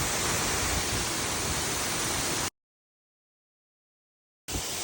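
Steady rush of water from a waterfall. It cuts off abruptly about two and a half seconds in, leaving two seconds of dead silence, and resumes just before the end.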